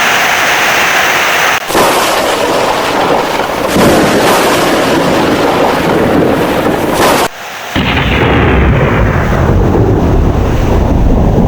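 Heavy rain with thunder, a dense steady hiss with a deep rumble that grows strong in the second half. The sound drops out abruptly twice, briefly about a second and a half in and for a moment just past seven seconds.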